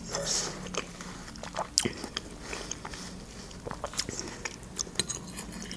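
A mouthful of watermelon being chewed, with irregular, wet crunching clicks.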